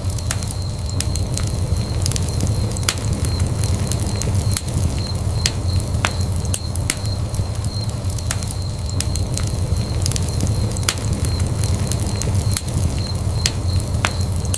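Wood fire burning in a fireplace, with a steady low rumble and irregular sharp crackles and pops throughout.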